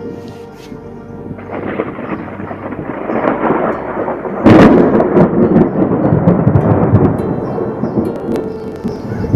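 Thunder: a rumble builds from about a second and a half in, then a sudden loud crack about four and a half seconds in, followed by rolling rumbling.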